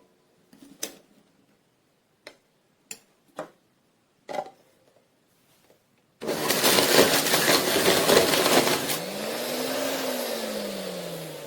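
A few light clicks, then the JUILIST 400 W blender's motor switches on suddenly about six seconds in and runs loudly. Near the end its hum rises briefly in pitch and then falls as the motor slows and the sound fades.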